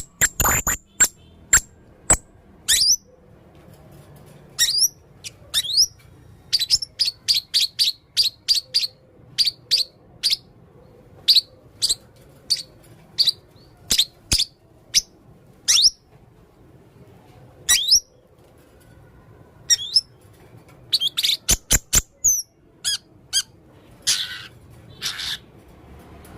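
Male blue-crowned hanging parrot singing: runs of short, sharp, high chirps, many with a quick rising flick, and a few harsher, raspier calls near the end.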